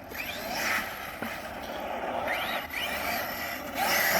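Arrma Outcast 6S EXB RC monster truck's brushless motor whining up and down in short throttle bursts, about four times.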